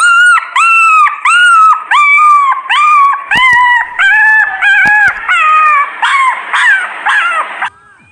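An animal yelping over and over, about two high, sharp yelps a second, stopping near the end.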